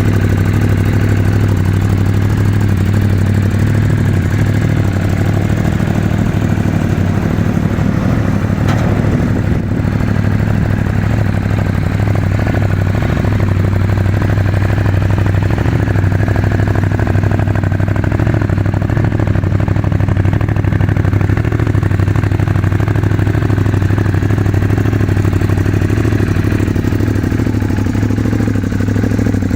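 Ducati Monster 821's Testastretta V-twin engine idling steadily.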